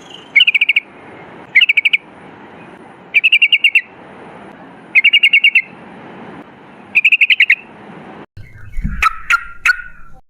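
Yellow-vented bulbul (trucukan) singing: short bursts of rapid chattering notes, five times, about every one and a half seconds. Near the end the recording changes abruptly to a low thump and a few scattered calls.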